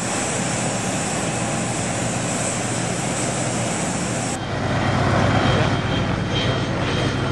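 Airbus A380 jet engines making a steady rushing noise. About four seconds in the sound changes abruptly, turning slightly louder and duller.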